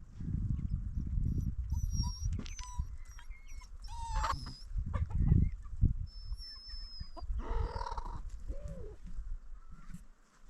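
Farmyard animal sounds: small birds chirping with quick rising and falling notes, and one short animal call about two-thirds of the way through, over a low rumbling noise.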